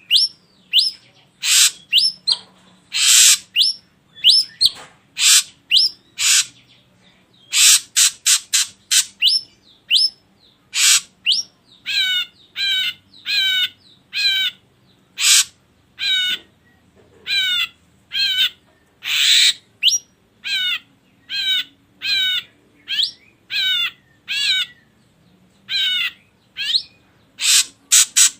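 Ashy drongo calling: a run of short calls with brief gaps between them, harsh rasping notes mixed with whistled notes that waver in pitch. There is a quick run of notes partway through and another near the end.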